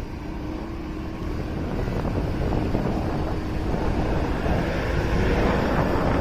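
Motorcycle riding through city traffic, heavy wind rush on the microphone over the engine. The engine note climbs slowly and the sound grows louder as the bike accelerates.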